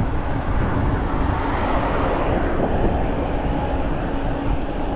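Steady road and engine rumble of a car driving along, with a faint steady hum over it.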